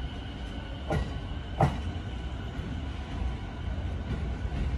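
E217-series electric train pulling away, a steady low rumble with two sharp clacks from its wheels on the track about a second and a second and a half in.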